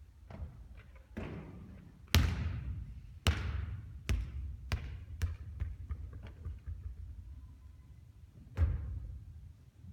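Basketball bouncing on a court with a ringing echo: two loud bounces, then quicker, softer ones as the ball settles, and one more loud bounce near the end.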